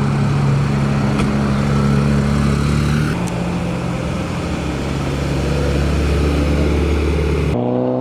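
Car engines running steadily at low speed as cars roll in. The engine note changes abruptly about three seconds in, and near the end it cuts suddenly to a different engine.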